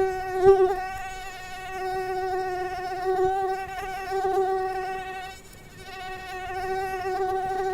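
Mosquito in flight: a steady, high-pitched whine of beating wings, with a short knock about half a second in. The whine fades briefly a little past two-thirds of the way through, then comes back.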